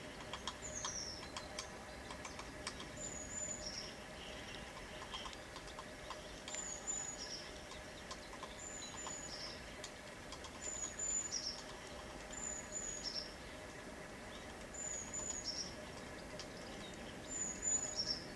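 A small bird calls over and over, one high two-part note about every two seconds, a thin whistle dropping to a lower note. Light clicks sound during the first few seconds, over faint steady background noise.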